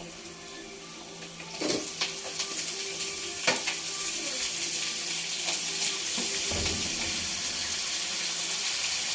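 Onion and garlic sizzling in hot cooking oil in a pan, stirred with a ladle that clicks against the pan now and then. The sizzle jumps louder about one and a half seconds in and then holds steady.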